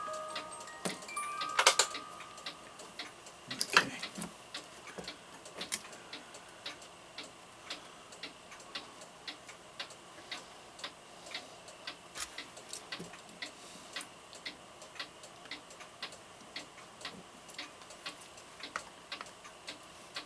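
A mechanical clock ticking with a steady, even beat. There are a few louder knocks in the first four seconds.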